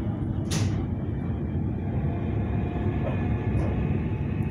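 Siemens Nexas electric suburban train running at speed, heard inside the carriage: a steady low rumble of wheels on the rails, with a brief hiss about half a second in.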